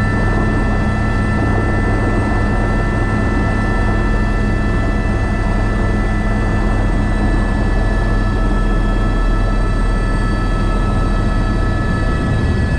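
Airbus H125 helicopter running steadily in flight: the drone of the rotor and its single turboshaft engine, with a constant high whine over it.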